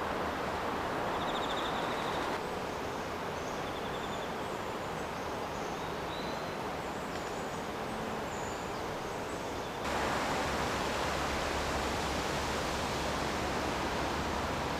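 Steady outdoor noise, a rushing hiss like wind or moving water, with a few faint high chirps from birds or insects. The sound changes abruptly twice, about two seconds in and again near ten seconds.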